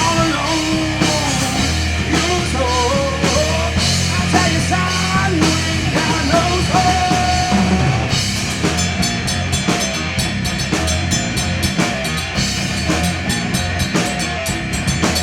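Loud punk-style rock music with a drum kit, bass and a singing voice; about halfway through, the cymbals and drums become busier and the voice drops back.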